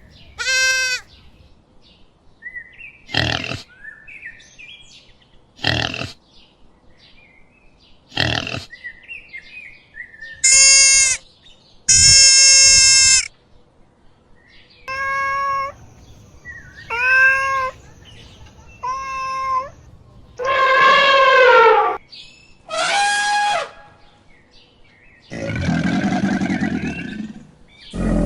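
Farm animals calling one after another: about a dozen separate cries, each a second or two long, with a longer, lower, hoarser call near the end.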